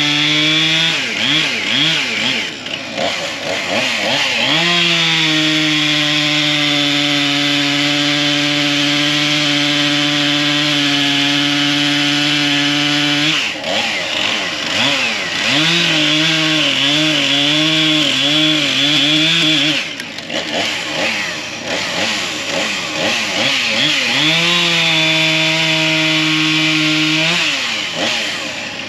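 Chainsaw bucking firewood logs into lengths: it runs at full throttle through three long cuts, dropping back and blipping the throttle between them. In the middle cut the engine pitch wavers up and down under load.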